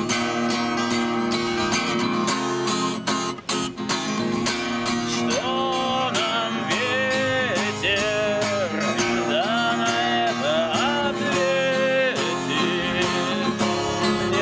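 Acoustic guitar strummed in an instrumental break of a song, with a brief gap in the strumming about three and a half seconds in and a gliding melody line carried over the chords from about five seconds on.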